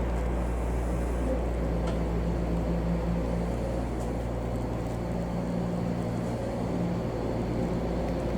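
Electric commuter train running, heard from inside the car: a steady low hum with a constant drone and rolling noise, easing a little just after the middle.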